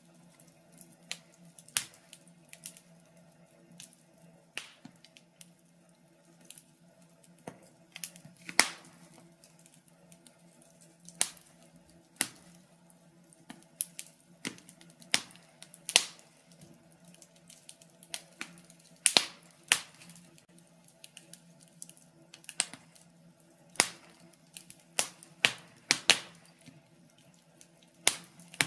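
Wood fire crackling in a fireplace: irregular sharp pops and snaps, some coming in quick clusters, over a faint steady low hum.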